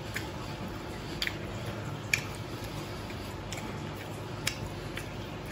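Eating at close range: quiet chewing of crispy-skinned fried chicken leg, with about five short sharp clicks or crunches spread over a few seconds, above a steady low hum.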